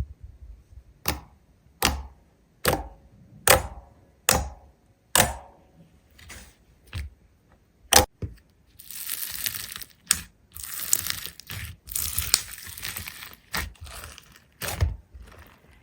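A run of sharp cracks or snaps, about one every 0.8 seconds, then several seconds of dense crinkling and crunching, with a few more sharp cracks near the end.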